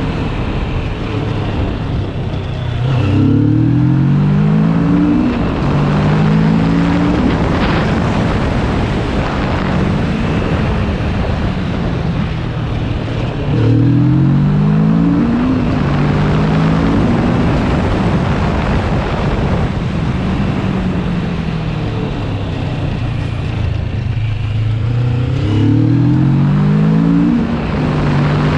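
Motorcycle engine pulling through the gears three times: each time the revs climb, drop at the upshift and climb again in a short run of steps. Between the pulls the engine cruises under a steady rush of wind noise.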